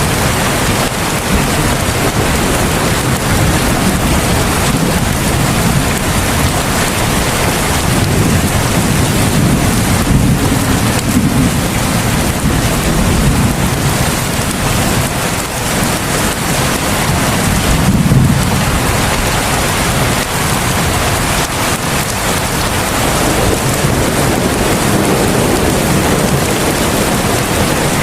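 Heavy rain falling steadily, a dense even hiss. Beneath it a low rumble swells up twice, about a third of the way in and again past the middle.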